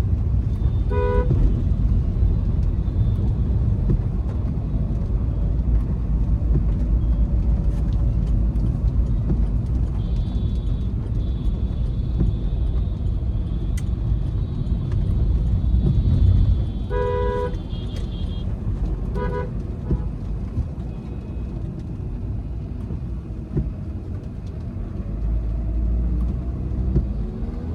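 Steady low rumble of a Volkswagen Vento 1.5 TDI diesel heard from inside the cabin while driving, engine and road noise together. A short car horn toot sounds about a second in, and two more come close together about two-thirds of the way through.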